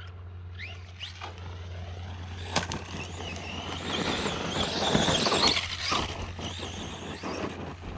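Arrma Outcast 4S RC truck's brushless motor revving in short rising whines, then driving hard with tyre noise that swells to its loudest about five seconds in and eases off.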